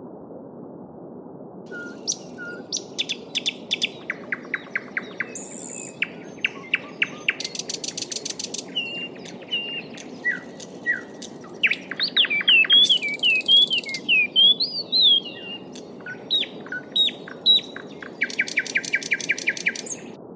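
Songbirds singing and calling over the steady rush of a babbling stream: rapid trills, short whistled notes and rising and falling slurred phrases, beginning about two seconds in.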